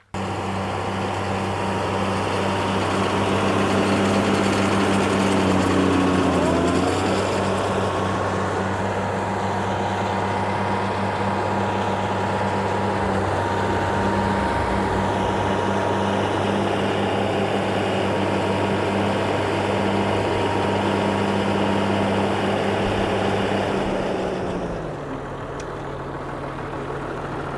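Tractor engine running steadily at working speed, then dropping to a lower idle about 25 seconds in.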